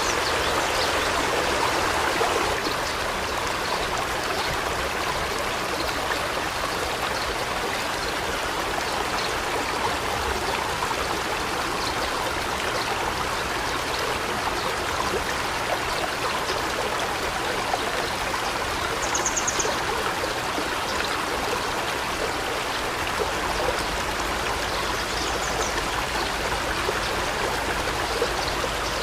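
River stream flowing steadily over rocks, a continuous rushing of water. A short, high trilled bird call sounds about two-thirds of the way in, and a fainter one a few seconds later.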